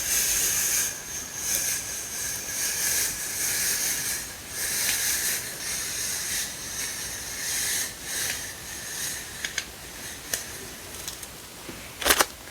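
Rustling and crinkling of stickers and their packaging being handled, swelling and fading in waves. A few light clicks come near the end, then a sharper crackle.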